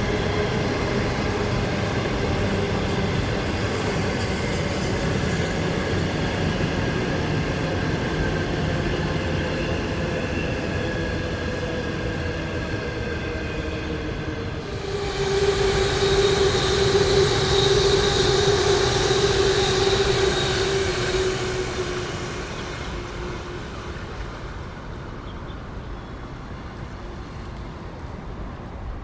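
Train running on the line: a steady rolling rumble with faint whining tones. About halfway through it grows louder, with a steady high-pitched squeal and hiss for about six seconds, then fades away.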